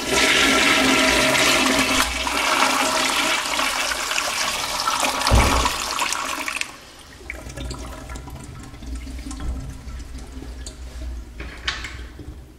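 Very old American Standard toilet with a push-button flush being flushed. A loud rush of water starts at once and runs for about seven seconds, with a low thump about five seconds in, then drops to a quieter wash of water. The flush is really slow.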